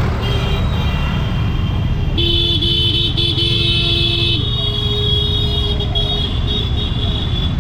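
Vehicle horns honking in road traffic over a steady low rumble: several short horn blasts run together about two seconds in, then a fainter held horn tone a little later.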